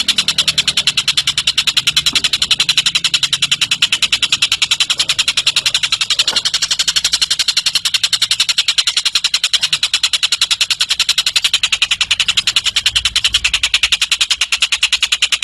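Tengek cililin bird calling in one long, unbroken high-pitched trill of quick, evenly repeated ticking notes, several a second, as used for training cage birds to copy.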